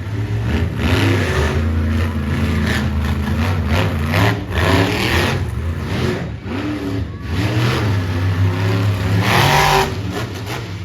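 Monster truck engine revving hard over and over, its pitch climbing and dropping repeatedly, with several loud bursts of noise.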